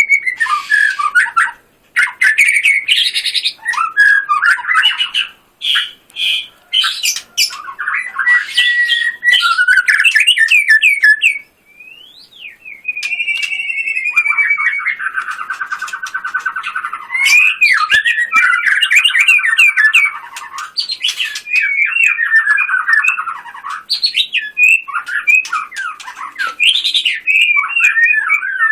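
White-rumped shama singing loudly in full song: a nearly unbroken run of quick, varied whistled phrases, sweeps and trills, with sharp bursting phrases among them. It breaks off briefly about eleven seconds in, then sings a long, fast rattling trill.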